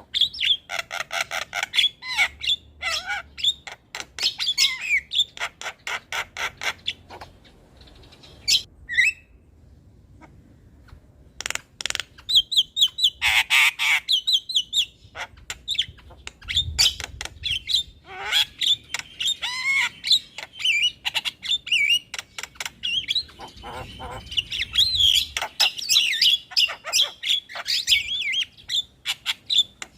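Javan myna singing: fast runs of harsh, clicking chatter and squawks mixed with whistled notes, with a brief pause about ten seconds in.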